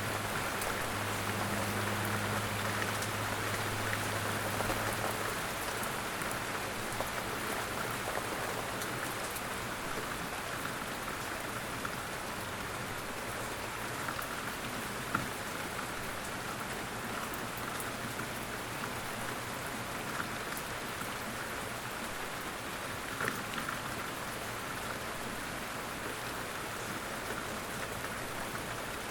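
Steady light rain falling on leaves and ground in woodland, an even patter with a few sharper single drops now and then. A faint low hum sits under it for the first few seconds.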